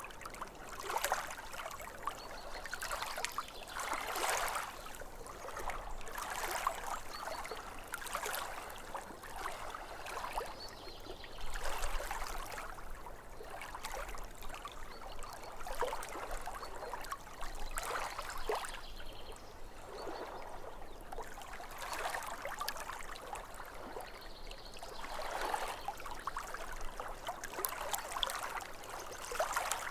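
Lake water lapping against the shore, small waves splashing and trickling in irregular swells every couple of seconds.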